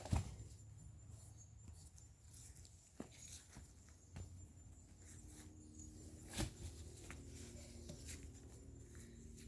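Faint, scattered knocks and light rustling of sticks and wood being handled and stacked to build a bonfire.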